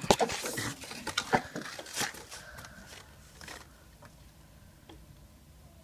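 Handling noise: a run of sharp clicks and short rustles in the first few seconds, loudest near the start, then faint background hum.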